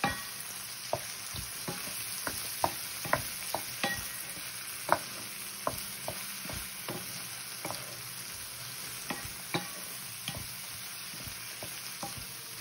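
Corn kernels and garlic sizzling in a skillet with a steady hiss, stirred with a wooden spoon, with irregular sharp clicks and knocks through it.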